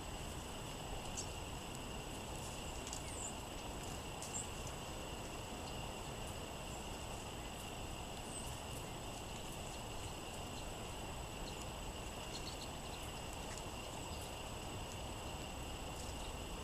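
Wind noise with a few brief, high songbird chips scattered through, over a faint steady high tone.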